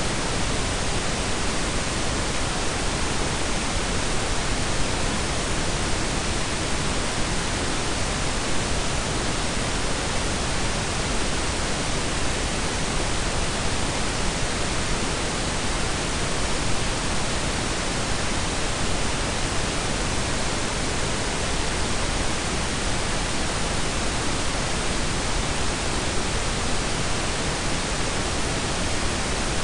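Steady blend of pink noise and brown noise: an even, unchanging hiss with no tones, beats or events.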